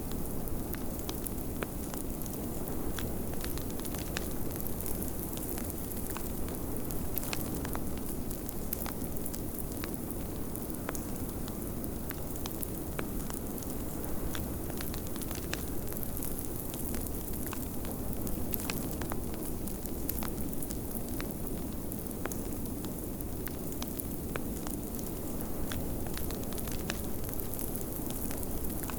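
Wood fire in a fireplace crackling with frequent small pops, over a steady low rush of blizzard wind.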